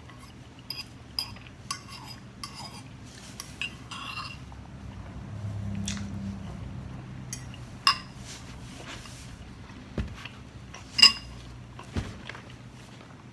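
Eating utensil clinking and scraping against a bowl of noodles and pork, in irregular sharp clinks a second or more apart, the loudest about eleven seconds in.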